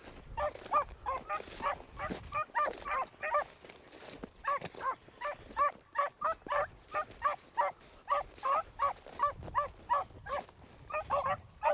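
Beagles baying while running a rabbit track: a steady string of short, repeated, overlapping hound calls, about two to three a second.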